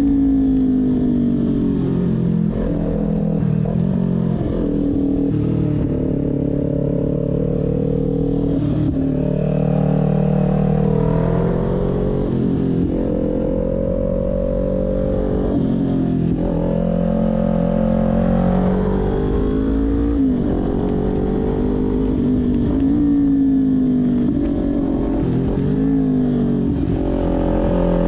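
Kawasaki Ninja 400's parallel-twin engine, heard from the bike, revving up and easing off again and again: rising in pitch on the throttle, then dropping back, over and over, as the bike is ridden hard through a run of tight turns.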